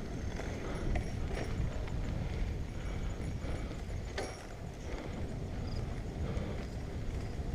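Bicycle in motion: a steady low rumble of wind on the microphone, with scattered sharp clicks and knocks from the bike rattling over the trail surface.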